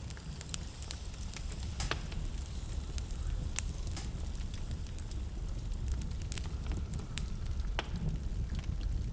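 Wood fire in a fireplace crackling, with sharp pops and snaps scattered over a low steady rumble of flames.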